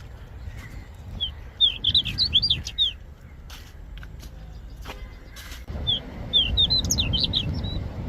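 A small songbird sings two short phrases of quick, high, down-slurred notes, a few seconds apart, over a steady low rumble.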